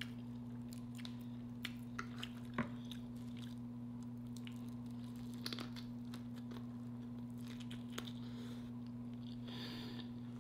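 A person chewing and biting fried lobster tail close to the microphone, with scattered crisp crunches, over a steady low hum.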